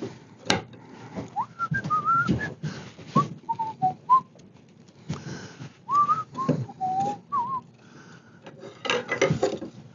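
A person whistling a tune in three short melodic phrases of gliding notes, between sharp knocks and clicks from the chair parts being handled and clamped. The loudest knock comes about half a second in, and a cluster of clicking comes near the end.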